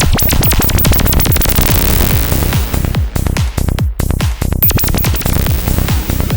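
Psytrance-style analog modular synthesizer effects: a fast stream of sharp clicks and pulses over repeated falling bass sweeps, with a dense noisy top end.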